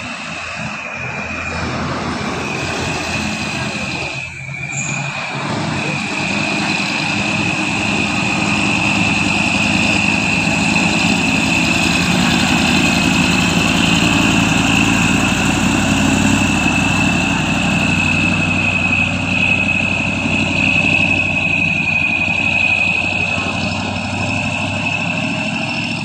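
Heavy truck engine running hard, getting louder over the first half, with a steady high-pitched whine above it throughout. There is a brief dip about four seconds in.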